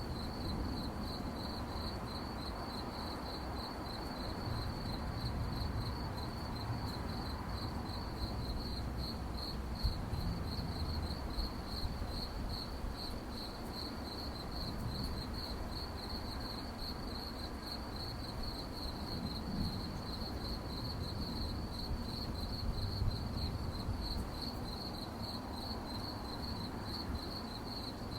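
Crickets chirping at night in an even, rapid rhythm on one high pitch, over a low background rumble.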